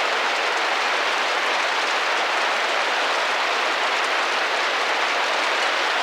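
Steady, dense rain pattering on window glass, an even hiss of many drops with no single drop standing out.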